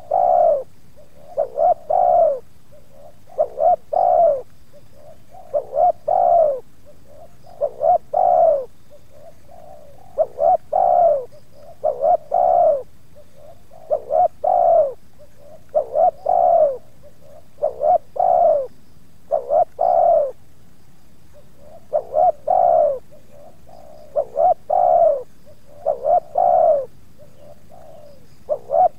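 Spotted doves cooing loudly and close, a repeated phrase of short and longer curved coos coming about every two seconds.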